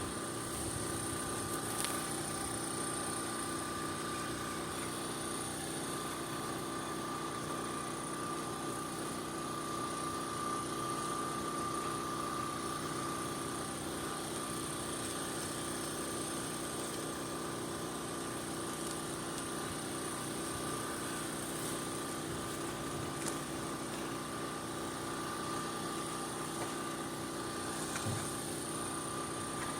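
Portable generator engine running at a steady speed, a constant even hum.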